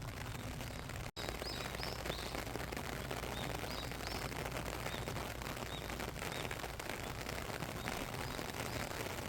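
Steady rain, a dense hiss with fine patter, that cuts out for an instant about a second in. After the gap, small birds chirp again and again, high and short, over the rain.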